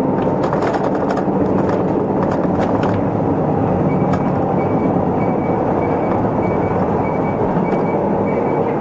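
Isuzu Erga Mio route bus running, its diesel engine and road noise heard from inside the cabin, with a few rattles early on. About four seconds in, a regular high-pitched beep starts and repeats steadily.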